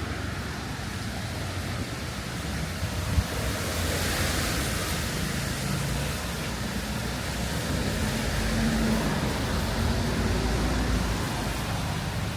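Street traffic ambience: a vehicle passes with a swell of tyre hiss about four seconds in, and a low engine hum follows later on. A single sharp knock comes shortly before the swell.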